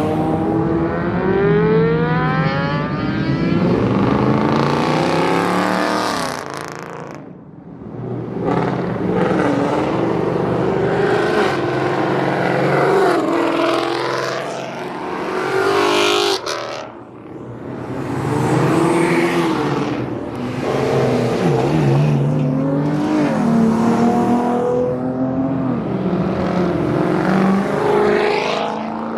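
Car engines revving hard and driving past one after another, the engine note climbing and falling with each rev, with brief lulls about seven and seventeen seconds in.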